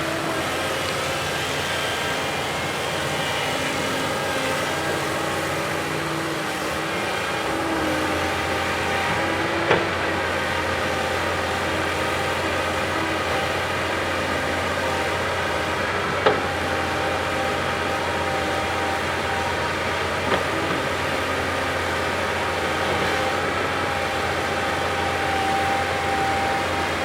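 Diesel engine of a backhoe loader running steadily under work, with three sharp knocks about ten, sixteen and twenty seconds in.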